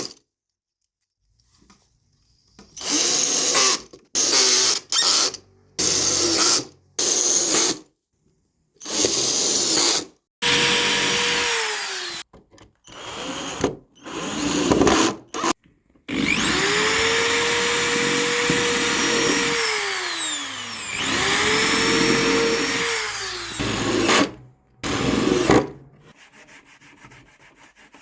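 Electric drill run in a string of short trigger pulls, then in several longer runs. The motor whines up to speed, holds a steady pitch, and winds down each time it is released.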